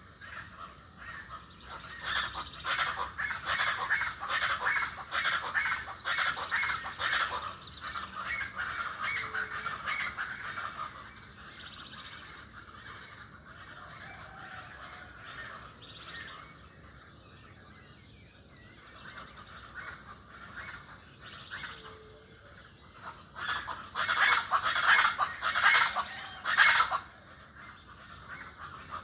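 Birds calling: two loud bouts of rapid, harsh calls, the first lasting most of the first ten seconds and the second starting about 24 seconds in, with quieter chirping between.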